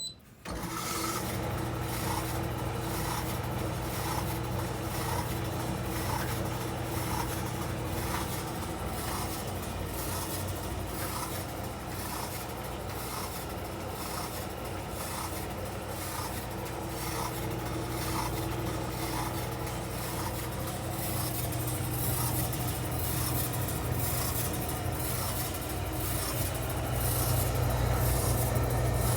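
COSTWAY 1700W portable tumble dryer starting up about half a second in and running steadily. Its motor hums, and the turning drum gives a regular rubbing tick. The dryer is running without heat, blowing only cold air.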